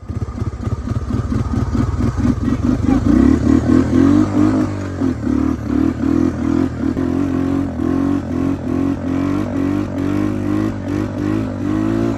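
Honda Big Red three-wheeler's engine revving hard in second gear, pulling a towed parasail rider. It picks up about three seconds in and then holds high revs with a rhythmic rise and fall a few times a second.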